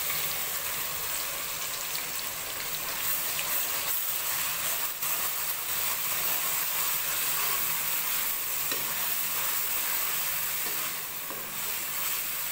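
Onion, garlic and green chilli paste sizzling as it fries in hot desi ghee in a kadhai, stirred with a metal ladle that knocks lightly against the pan now and then.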